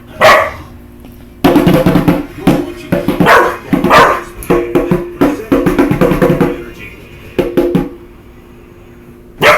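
Djembe drum played by hand: a run of loud, irregular strikes from about a second and a half in, stopping near the end.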